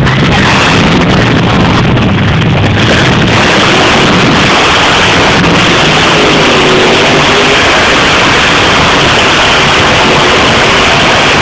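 Monster truck engines running at full throttle, very loud and steady, the low engine note giving way about three seconds in to a dense, even noise that nearly overloads the recording.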